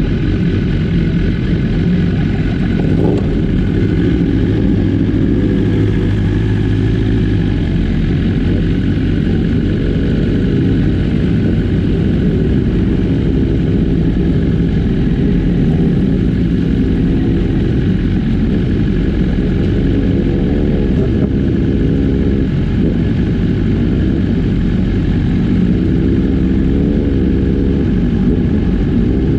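A pack of superbike engines running together, with many overlapping exhaust notes. The revs rise and fall several times as the bikes accelerate and ease off.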